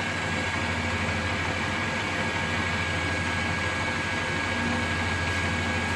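Restored Colchester Student metal lathe running under power: a steady motor and gear-train hum with a thin, constant high whine.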